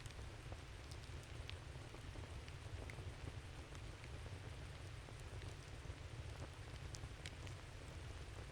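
Wood campfire crackling: scattered sharp pops and snaps over a steady low rush.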